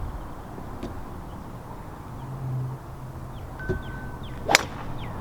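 Golf club striking a ball off the tee: one sharp, loud crack about four and a half seconds in, with a smaller knock just before it. Birds chirp in short falling notes near the end.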